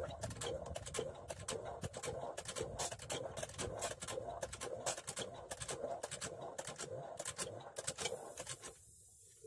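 Small diesel engine driving a water pump, running with a fast, even knocking beat. The sound cuts off abruptly about nine seconds in.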